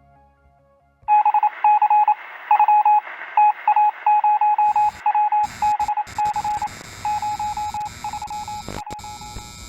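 Rapid electronic beeps at a single pitch, keyed on and off in short and long pulses like Morse code or radio signalling, over radio-style hiss, starting about a second in. Near the end the beeps thin out and a low rumble and hiss come up.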